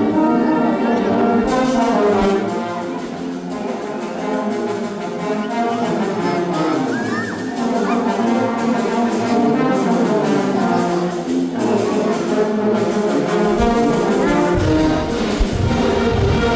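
Brass band playing a melody.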